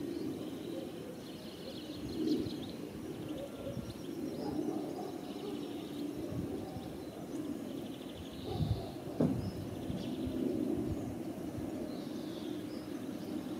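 Small birds chirping and twittering in short scattered bursts over a steady low background hum, with a brief thump and a sharp click about nine seconds in.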